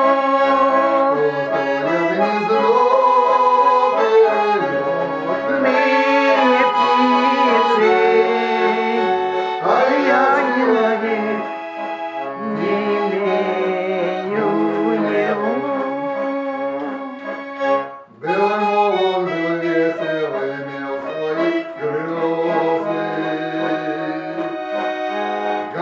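Garmon, a Russian button accordion built by the master Khoroshilov, playing an instrumental interlude of the melody over sustained chords. The playing breaks off very briefly about 18 seconds in.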